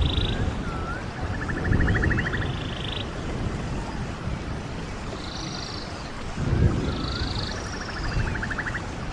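Running water of a stream, with a bird singing over it: short hooked notes each followed by a fast rattling trill, repeated several times, and higher curving whistles in the middle.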